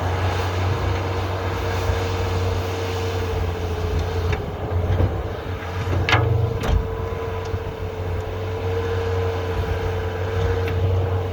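Bobcat skid-steer loader running under load in deep snow, a steady engine drone with a held whine over it; it is bogging down and digging itself deeper. Two sharp clanks come about six seconds in.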